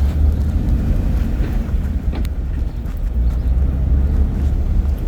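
Lifted Jeep driving on the road: a steady low rumble of engine and road noise.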